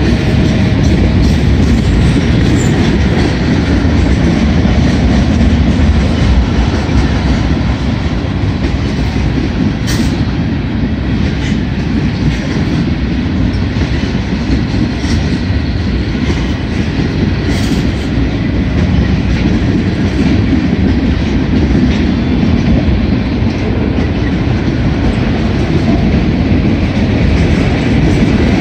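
Freight train cars rolling past at close range: a steady heavy rumble of steel wheels on rail, with sharp clanks about ten and eighteen seconds in.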